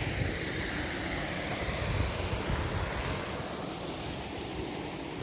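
Steady rushing noise with wind buffeting the microphone in low, irregular gusts.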